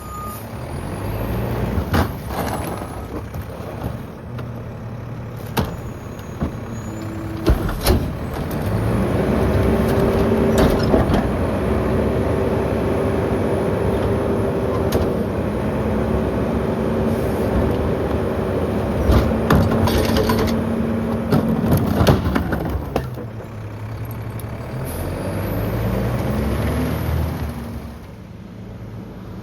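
Mack LEU garbage truck's diesel engine revving up to drive the McNeilus rear loader's hydraulic packer. It holds high with a steady whine for over ten seconds, drops back, then revs briefly again. Knocks and bangs of the packer blade compacting heavy garbage come through it.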